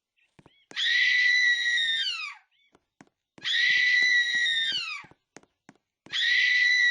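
A loud, high-pitched scream, repeated three times in nearly identical form. Each cry lasts under two seconds, ends with a falling pitch, and is followed by a short silence; the last one is cut off.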